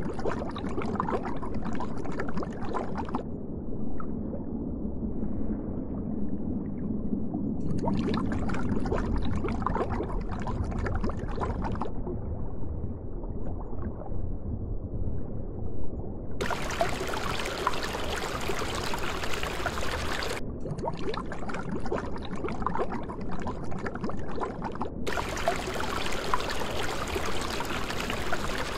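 Gurgling, sloshing water noise of the kind picked up underwater or in an aquarium. Its tone shifts abruptly every few seconds, brighter and hissier at some moments and duller at others.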